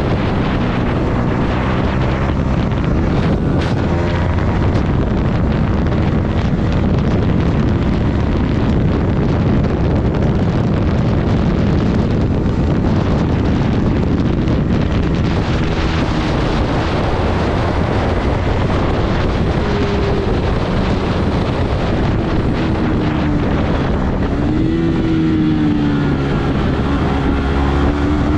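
Yamaha MT-15 motorcycle's single-cylinder engine running on the move, under heavy wind noise on the microphone. Near the end the engine note rises and falls with throttle changes.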